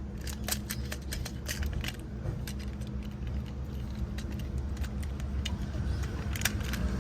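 Light plastic clicks and rattles, scattered and irregular, as small toy-train parts are handled and fitted together, over a steady low rumble.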